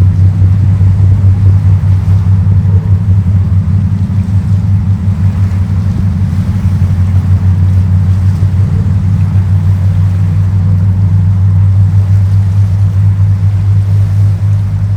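Super Jet Miyajima high-speed boat's engines running steadily under way, a loud, even low drone with a faint wash of water and wind noise above it.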